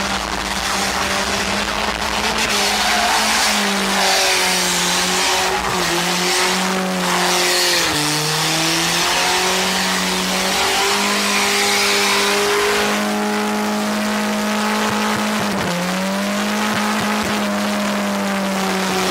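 Car engine held at high revs during a burnout, with the tyres squealing against the pavement. The engine note holds steady, dipping briefly twice, about eight and sixteen seconds in.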